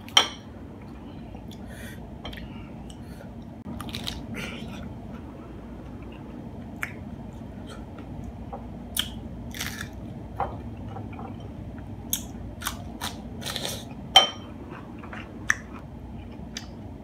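Close-up chewing and crunching of hard-shell tacos: short, irregular crisp crunches scattered throughout, the loudest just after the start and about fourteen seconds in.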